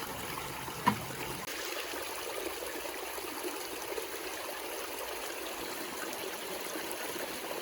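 River water flowing steadily, a continuous rushing hiss, with one brief louder sound about a second in.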